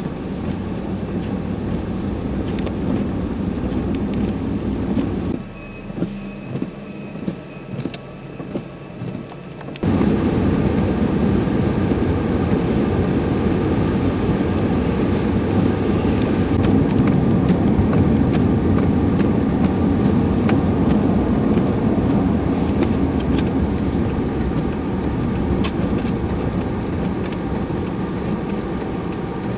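Vehicle engine and road noise running steadily. It drops off abruptly about five seconds in and comes back just as suddenly about ten seconds in, with a run of faint ticks near the end.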